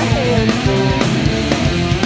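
Rock band recording: electric guitars, bass and drums playing a loud, steady section of the song.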